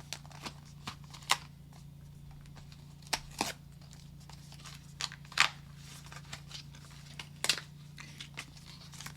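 Phone cases and packaging being handled: about six sharp, scattered plastic clicks and small rustles, over a faint steady low hum.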